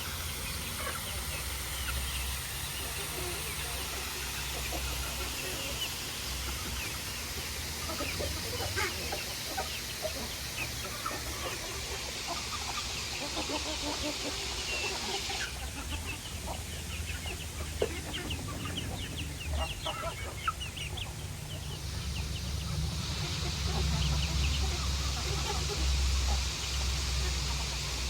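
Chickens clucking, with many short calls scattered throughout, over a steady hiss and a low rumble. The hiss drops away for several seconds past the middle, then returns.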